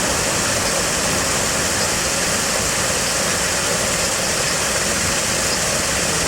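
Steady rushing of a fast-flowing river, an even hiss of water without a break.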